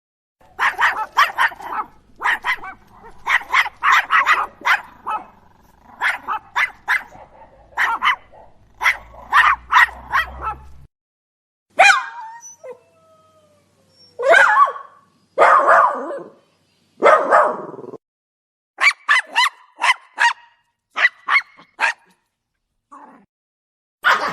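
Puppy barking and yapping in quick clusters of three to five short barks. About halfway through come a few longer yelps and a whine that falls in pitch, then more short yips.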